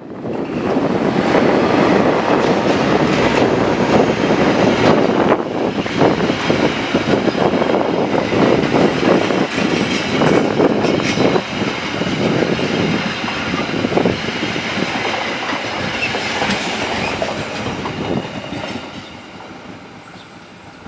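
Passenger train hauled by a CC 206 diesel-electric locomotive passing at speed, its wheels clattering over the rail joints in a steady run of clacks. The noise falls away about eighteen seconds in as the last coach pulls away.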